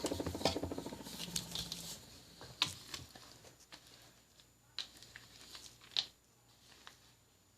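Whisk stirring chocolate chips into sweetened condensed milk in a bowl: rapid clicking and scraping for about two seconds, dying down to a few scattered clicks.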